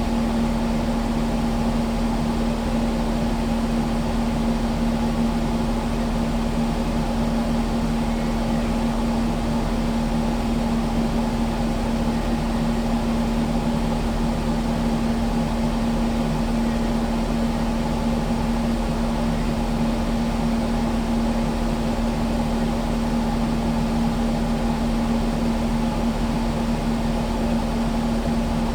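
Kubota skid steer's diesel engine running at a steady speed, a constant drone with a strong steady hum and no change in pitch or level.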